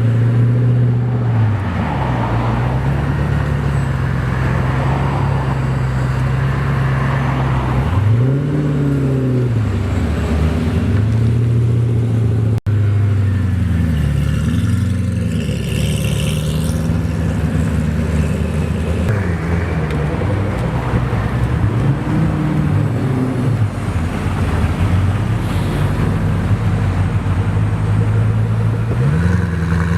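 Koenigsegg V8 supercar engine idling, with short blips of the throttle that rise and fall back a few times, and a rev rising near the end.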